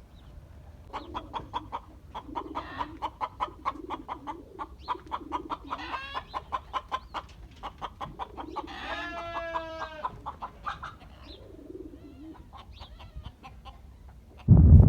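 Domestic chickens clucking in quick runs of short notes, with a longer drawn-out call about nine seconds in. Near the end a sudden loud gust of wind hits the microphone.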